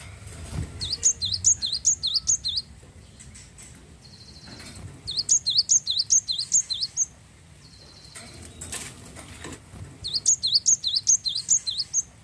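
Glatik wingko, a cinereous tit, singing: three quick bouts of rapid, high, downward-slurred whistled notes, about five a second, with short pauses between the bouts.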